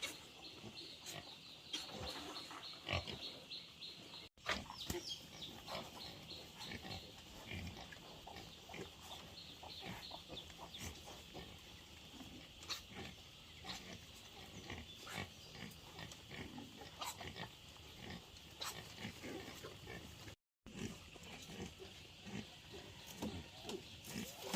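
Pigs grunting, with many short clicks and knocks throughout. The sound cuts out twice, briefly.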